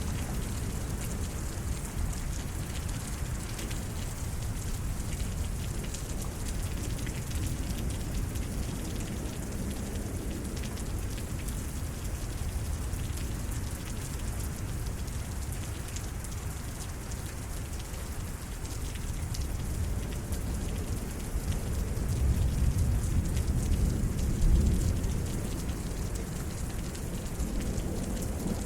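Steady rain falling through a night thunderstorm, with a low rumble of thunder swelling about two-thirds of the way through and then fading.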